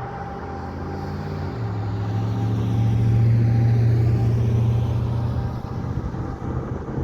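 Diesel engine of a heavy fire apparatus pulling past, its note stepping as it shifts gear about a second and a half in, growing loudest around the middle and then fading as it moves away.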